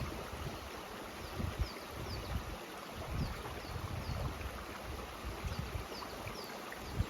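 Mountain stream rushing steadily, with uneven low rumbles of wind on the microphone. Over it, short high chirps repeat about twice a second.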